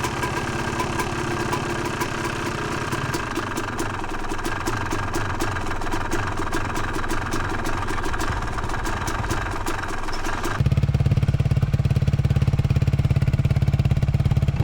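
Dirt bike engine running at low revs with a rapid, regular ticking; about ten seconds in, the sound changes abruptly to a louder low pulsing.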